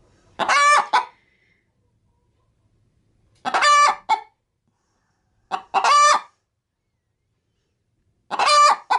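Domestic hen cackling while getting ready to lay an egg. Four loud, drawn-out squawks come two to three seconds apart, each with a short note tacked on.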